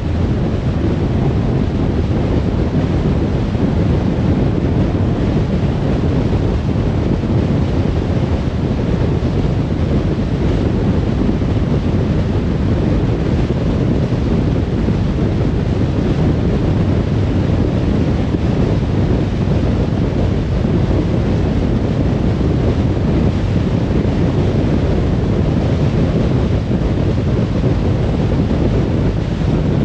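Steady low rumble of a car driving along a road: tyre and wind noise, even throughout with no sudden events.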